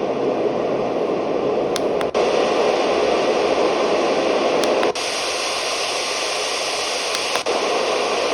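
Portable white noise machine playing a steady hiss of noise. Two or three times a short click and a brief dropout come before the noise steps to a slightly louder or quieter variant, as the machine is switched between its noise settings.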